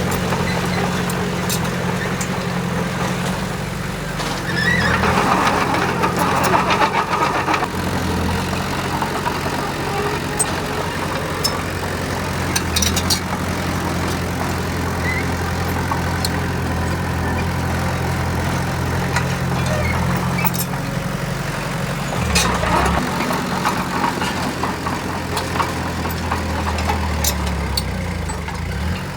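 Heavy construction machine's diesel engine running steadily, with louder, rougher passages about five seconds in and again past twenty seconds.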